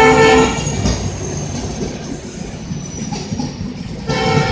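Rajdhani Express passenger coaches rolling past along the platform, wheels clattering on the rails, with a thin high squeal slowly falling in pitch. A short pitched tone sounds at the start and again about four seconds in.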